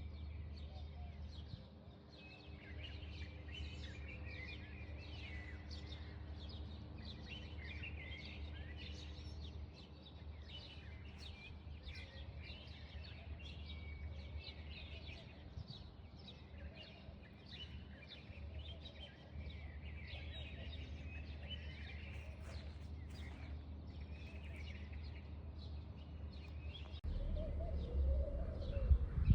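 Small birds chirping repeatedly over a steady low hum. A louder, lower sound starts about two seconds before the end.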